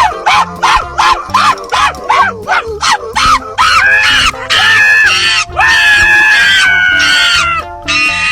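A dog yipping in a fast run of short barks, about four a second, then breaking into longer calls and one long, slowly falling howl about two seconds long, over background music.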